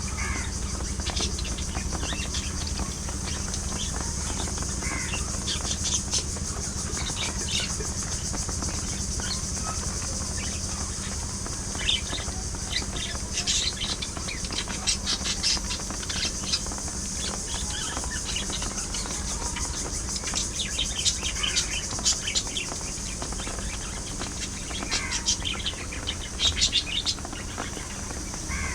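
A flock of budgerigars chirping and warbling in short, scattered bursts, busiest in several clusters, over a steady low hum and hiss.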